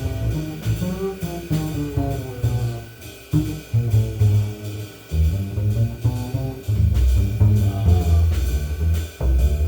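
Small jazz band playing an instrumental passage: a melodic line over bass notes and a drum kit.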